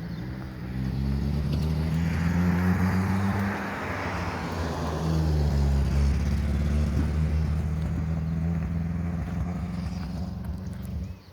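A motor vehicle's engine running steadily close by, with a swell of broader noise roughly two to five seconds in; the sound drops away abruptly at the end.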